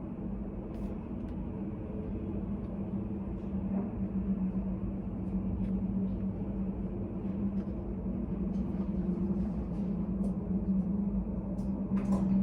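Steady low room hum with a held tone, study-cafe ambience, with faint scattered clicks and taps.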